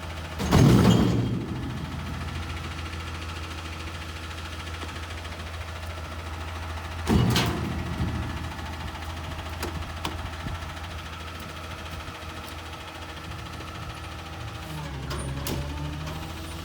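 Garbage truck engine running steadily, with two loud metallic bangs that ring out, the first about half a second in and the second about seven seconds in. Near the end the engine note rises and shifts.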